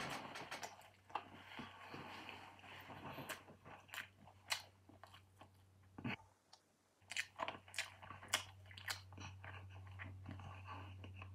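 A person chewing and biting roast chicken close to the microphone, with many short, sharp wet mouth clicks over a steady low hum. The sound drops out briefly about six seconds in.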